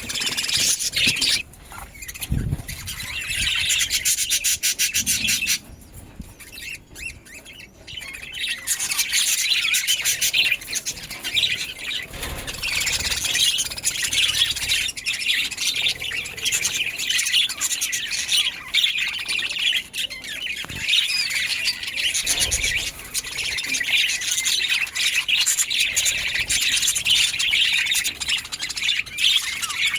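Budgerigars chirping and chattering nonstop, a dense run of quick calls that drops away briefly about six seconds in.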